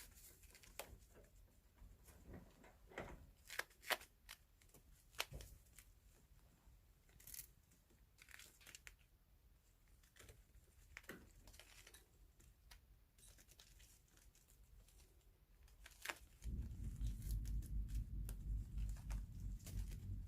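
Scattered light crinkles and clicks of kittens moving about and playing. About three-quarters of the way through, a steady low rumble starts suddenly and keeps going.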